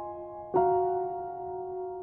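Slow piano music: a chord is struck about half a second in and left to ring and fade.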